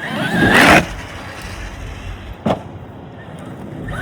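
Traxxas X-Maxx RC monster truck's brushless electric motor winding up in a loud, rising whine with the tyres spinning, cutting off under a second in. A single sharp knock follows about two and a half seconds in.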